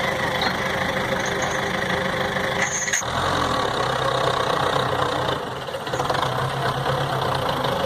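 Belarus tractor diesel engine running steadily, with an abrupt change in the sound about three seconds in.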